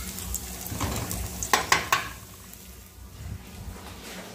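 Pork cracklings sizzling as they fry in oil in an aluminium pot, with three sharp clicks about a second and a half in.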